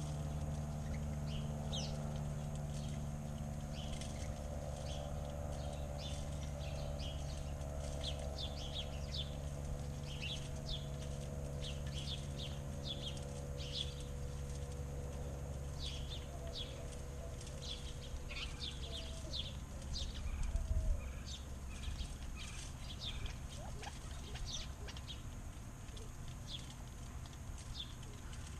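Backyard songbirds chirping over and over, many short quick chirps overlapping, over a steady low hum. A droning tone fades out about halfway through, and there is a low thump about three quarters of the way in.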